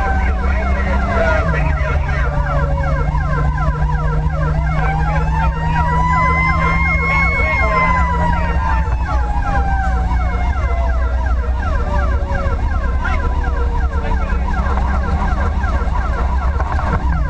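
Fire engine running with its sirens on: a siren sweeping rapidly up and down, and a second siren slowly rising to a peak about seven seconds in and then winding down, over the steady drone of the truck's engine.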